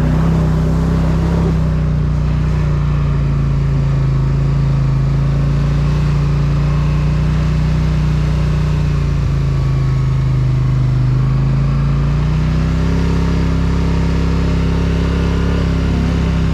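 Polaris Sportsman ATV engine running steadily under way. Its pitch sags slowly around the middle and picks back up about three-quarters of the way through.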